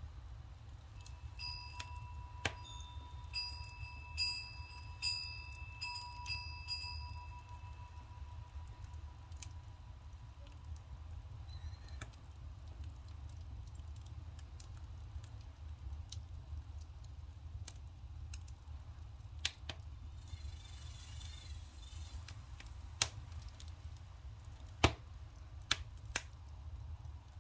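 Firewood burning with scattered sharp crackles and pops over a steady low rumble of water boiling in an iron cauldron. A wind chime rings a few clear notes in the first several seconds.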